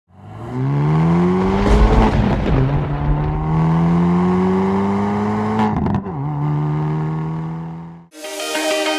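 Car engine accelerating through the gears: the pitch climbs, drops at a gear change about two seconds in, climbs again, drops at a second change near six seconds, then holds and fades out. Music starts just before the end.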